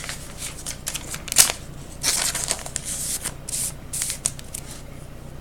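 Trading cards and plastic card sleeves rustling and crinkling as they are handled, in irregular bursts, with one sharp click about a second and a half in.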